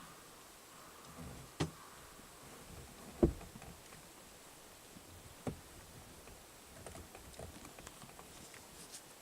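Faint scattered pattering and ticking, broken by three sharp knocks about two seconds apart; the middle one is the loudest.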